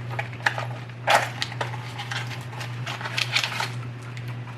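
Scattered clicks and clatters of differential bearing parts being handled on the bench, the strongest about a second in and a cluster around three seconds in, over a steady low hum.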